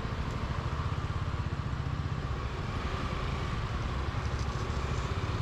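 Motorcycle engine idling steadily with a fast, even low pulse, the bike held stationary in a traffic jam.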